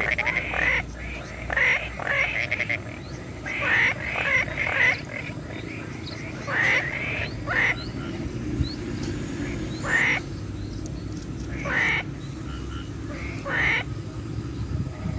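Frogs croaking in a rice paddy: short calls in quick clusters, a new cluster every second or two, over a constant high-pitched hiss.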